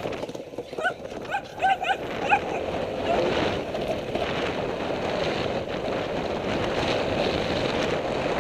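A dog barking, a quick run of short barks about a second in, followed by a steady rushing noise.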